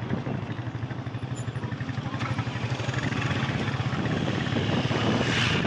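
Motorcycle taxi's small engine running steadily while riding along, with wind noise on the microphone.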